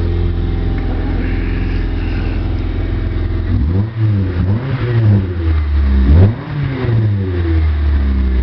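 Ford Tempo engine running through an exhaust with the muffler removed: idling steadily, then revved three or four times in quick blips, the highest rev a little past the middle, before dropping back to idle. The motor sounds healthy.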